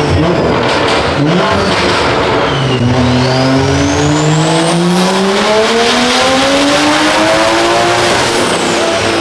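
Performance car engine revving up, its pitch climbing smoothly for about five seconds with no gear change, then dropping back near the end. A thin high whine rises along with it.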